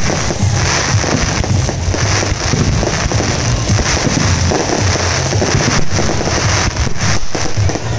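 Fireworks finale: a dense, unbroken barrage of shell bursts and crackle, with music playing underneath.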